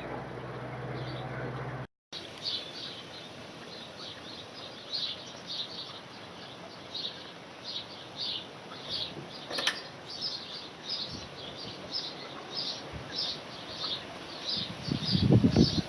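A bird's short, high chirps repeat steadily about two to three times a second, after a cut about two seconds in. Near the end a brief low rumble is louder than the chirps.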